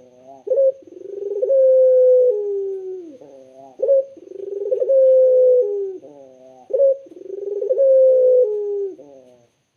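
Puter (Barbary dove) cooing: three repeated phrases about three seconds apart. Each is a short upturned note followed by a long, drawn-out coo that falls in pitch at the end.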